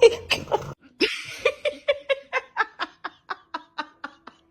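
A person laughing: a short outburst, then a long run of even 'ha-ha-ha' pulses, about four a second, growing fainter.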